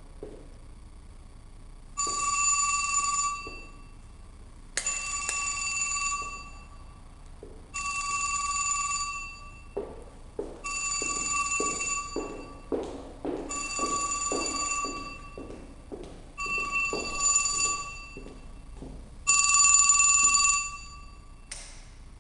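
A bell-type ringer sounds seven times in an even pattern, each ring about a second and a half long and about three seconds apart, as a telephone rings. Footsteps on a hard floor are heard between and under the middle rings.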